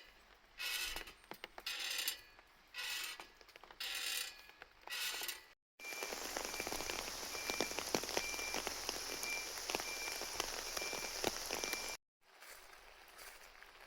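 Rain falling at a campsite in a heavy downpour, many drops pattering and ticking. For the first few seconds it comes and goes in short rushes. From about six seconds in it pours steadily and densely until it cuts off suddenly near the end.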